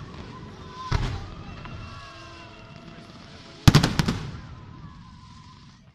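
Aerial firework shells bursting: a single bang about a second in, then a quick cluster of three or four bangs near the middle, each fading out slowly.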